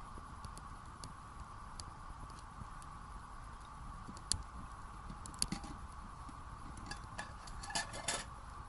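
Wood fire in a small fire pit crackling, with scattered sharp pops: one a little past four seconds in, another about five and a half seconds in, and a quick run of pops near the end. A steady faint tone sits underneath.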